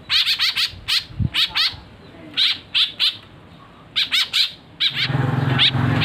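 Young caged birds giving short, harsh begging calls in quick clusters of two to four as they are hand-fed from a stick. A steady low hum comes in about five seconds in.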